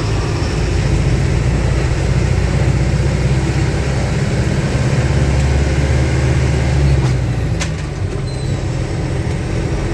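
Diesel truck engine running with road noise, a steady low drone; the lowest part of the drone eases off about seven seconds in.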